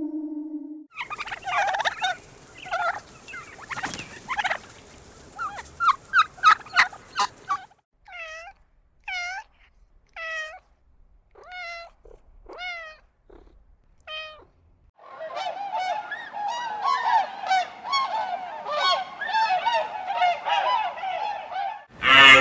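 Birds calling, like fowl or geese. First comes a cluster of short honking calls, then a run of single calls about a second apart, and from about two-thirds of the way through a dense chatter of many birds calling over one another.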